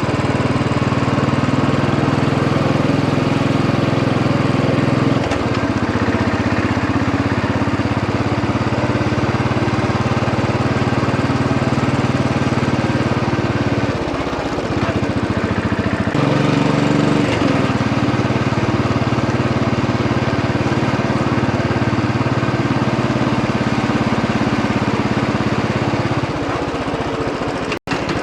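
Royal Enfield Bullet 500's single-cylinder engine running steadily under way, its note shifting a few times as the throttle changes, with a sudden brief dropout near the end.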